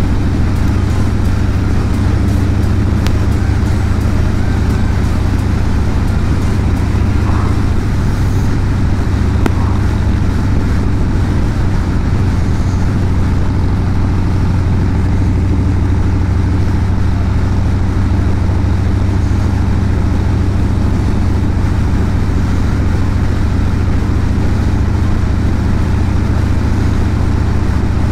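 Harley-Davidson Street Bob 114's Milwaukee-Eight 114 V-twin, fitted with a Two Brothers aftermarket exhaust, running steadily at cruising speed, its low engine note holding level.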